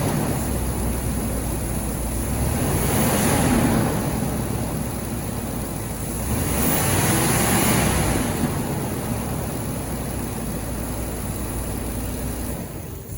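2021 Ford F-250's V8 engine running, revved twice, each rev swelling up and falling back over a couple of seconds before it settles to idle.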